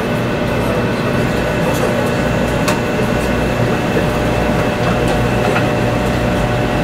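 Cabin running noise of a 500 series Shinkansen at speed: a steady rumble with a constant hum, and a couple of light clicks.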